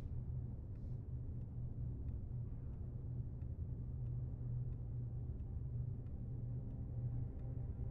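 Low steady hum with faint ticks, evenly spaced about one every half second to two-thirds of a second.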